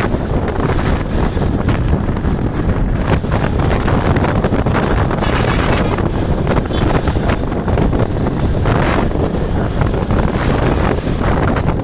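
Wind buffeting the microphone on a moving motorcycle: a steady, loud rush with vehicle and road noise beneath it.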